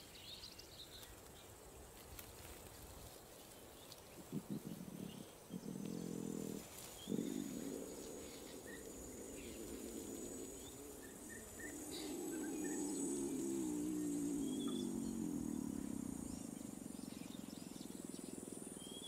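Lion giving low, drawn-out calls: a few short calls, then one long call of several seconds, typical of a sick lion cub in distress after a seizure. Faint bird chirps and insects sound in the background.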